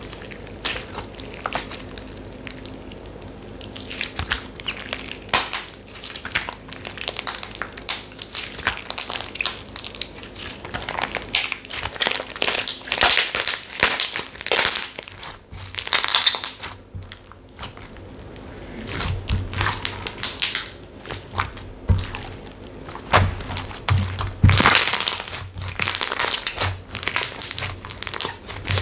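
Slime being pressed, squeezed and stretched by hand, giving repeated crackling and crunching bursts.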